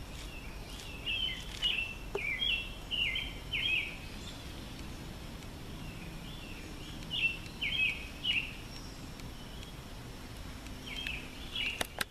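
A songbird singing in three bouts of quick, clear, slurred notes, each bout a few seconds long, over a steady low background rumble.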